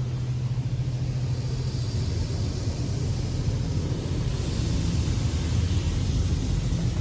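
Washworld Razor touchless car wash heard from inside the car: a steady low hum, with water spray hissing against the car body from about four seconds in.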